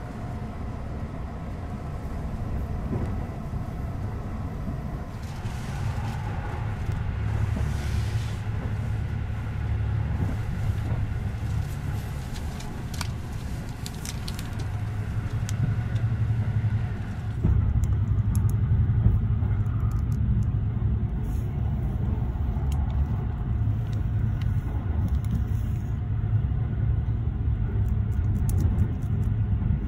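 Keihan limited express train running, heard from inside the passenger cabin: a steady low rumble of wheels on rails. It gets louder a little past halfway through.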